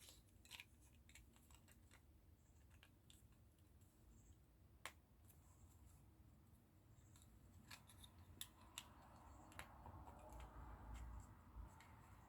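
Near silence with scattered faint clicks and light rustling of small plastic model parts being handled and pressed back into place, one clearer click about five seconds in.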